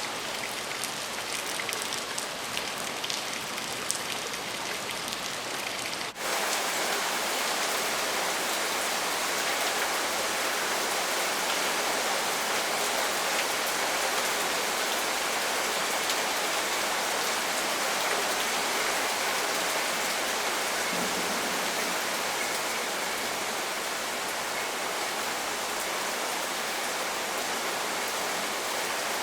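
Steady rain falling, with individual drops ticking. About six seconds in, it cuts abruptly to heavier, denser rain that then stays even.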